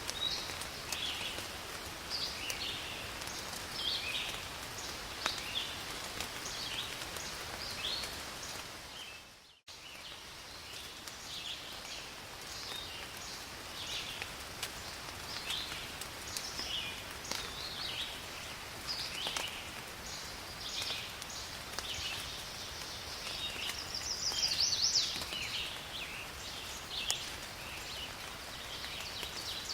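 Steady forest rain with many short, high animal calls chirping over it. The sound fades out briefly about nine and a half seconds in and comes straight back.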